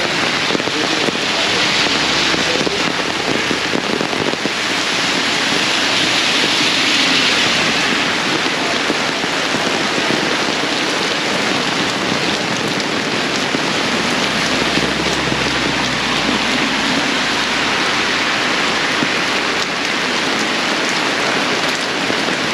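Heavy tropical rain pouring steadily and drumming on an umbrella overhead.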